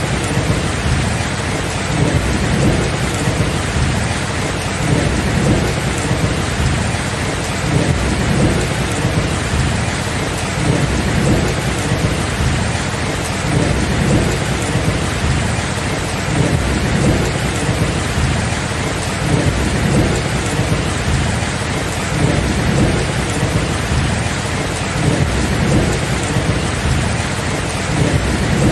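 Thunderstorm: steady rain hissing over a low rolling thunder rumble that swells and fades again every second or two.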